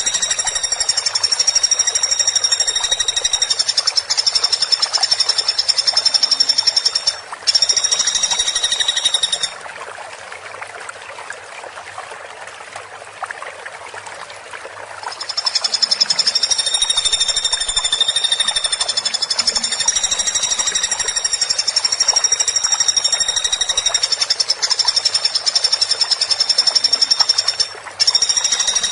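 Woodpecker (pelatuk) giving long, very rapid, high-pitched rattling trills that run for several seconds each. The trills stop for about five seconds a third of the way in, leaving a steady background hiss.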